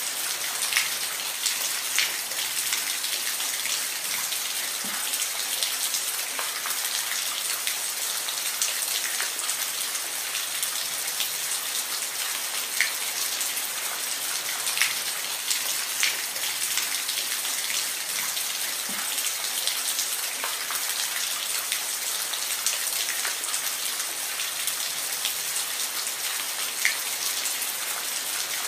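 Steady rain falling, an even hiss with many individual drops ticking and pattering on a hard surface close by.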